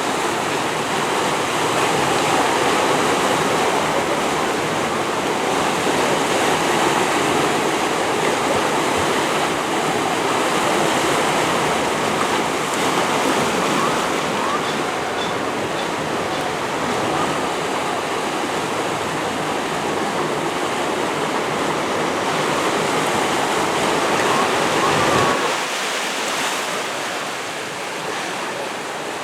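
Steady rushing wash of waves and open water. About 25 seconds in the deep low part of the noise drops away and it becomes slightly quieter.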